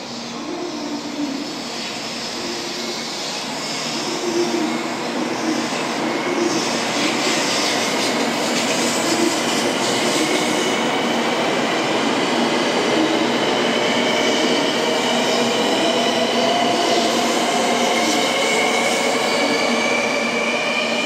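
JR West 700 series Rail Star shinkansen running alongside a station platform. A loud rushing rail noise builds from a few seconds in, with whining tones that rise in pitch over the second half.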